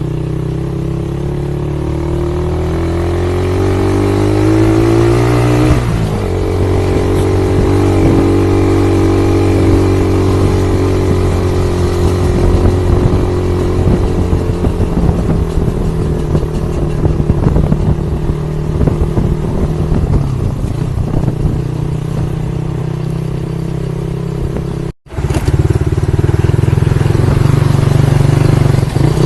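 Motorcycle engine rising in pitch for about six seconds, dropping sharply at a gear change, then running steadily with irregular rattling over it. The sound cuts out for a moment near the end.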